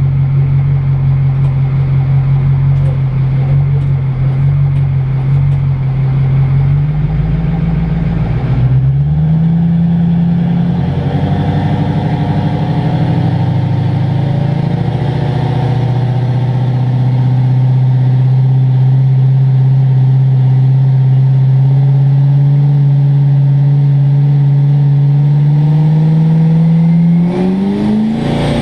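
A diesel pulling truck's engine, heard from inside the cab, held at a steady high idle. It is revved up and down briefly about eight seconds in, then held steady again. Near the end the engine note climbs as the truck throttles up to start its pull.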